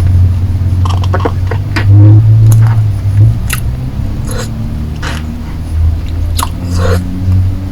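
Close-miked mouth sounds of sucking and licking a hard-candy lollipop: irregular wet smacks and clicks of lips and tongue over a steady low hum.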